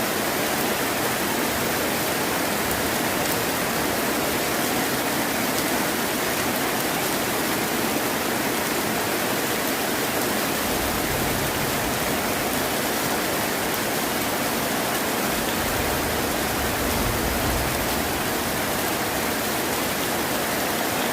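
Heavy rain falling steadily as a dense, even hiss, with a low rumble of thunder swelling about ten seconds in and again about sixteen seconds in.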